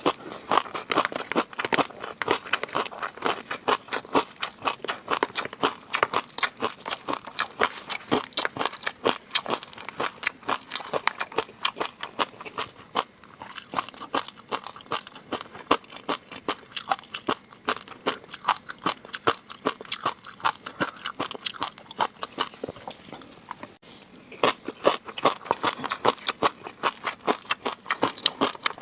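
Close-miked eating: rapid, continuous crunching and chewing of seafood, with a short lull about three-quarters of the way through.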